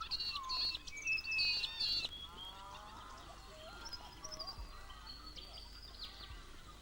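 Lorikeets and honeyeaters calling: a run of short, high chirping calls, louder in the first two seconds and then fainter and more scattered.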